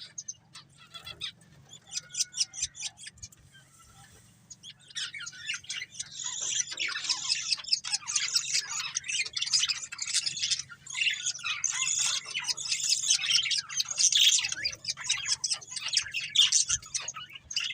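Budgerigars chirping: a few scattered high calls at first, then from about five seconds in a dense, continuous run of chirps and squawks.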